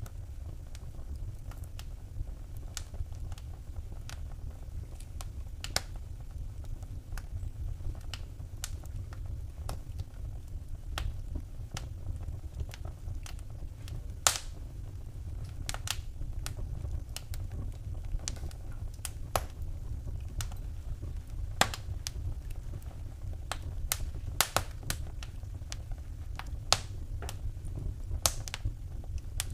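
Wood fire burning in a fireplace: irregular sharp crackles and pops over a steady low rumble. A few pops stand out louder, one about halfway through and several in the last third.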